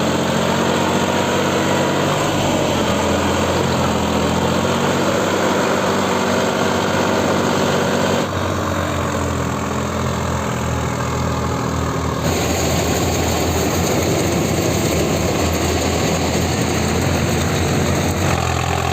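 Diesel tractor engine running continuously, its pitch wavering a little, with abrupt changes in the sound about eight and twelve seconds in.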